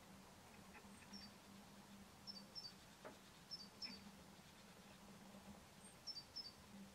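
Faint, short, high chirps from a small bird, mostly in quick pairs, repeated several times, over a low steady hum.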